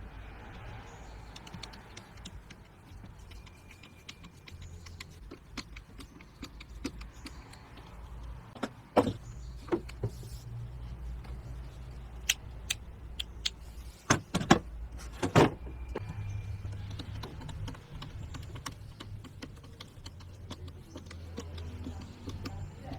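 Scattered sharp clicks and knocks of objects being handled, loudest in a cluster a little past the middle, over a low steady hum.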